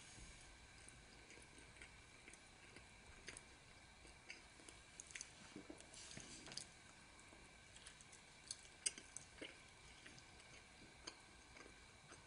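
Faint chewing and mouth sounds of people eating food, picked up through webcam microphones, with scattered small clicks and ticks. The sharpest tick comes about nine seconds in, over a faint steady high hum.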